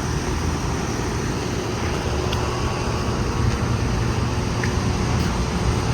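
Outdoor central air conditioner condensing units running, a steady hum of fan and compressor.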